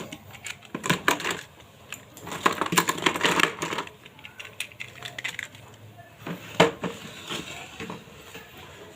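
Small hard toy cars clattering and clicking against each other as they are handled and rummaged in a toy box. A dense run of knocks in the middle, then a single sharp knock about two-thirds through.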